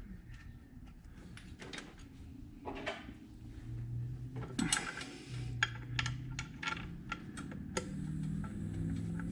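Scattered light metallic clicks and taps from bolts and hand tools being handled while the oil filler neck is fitted to the engine's cylinder head, over a low steady hum.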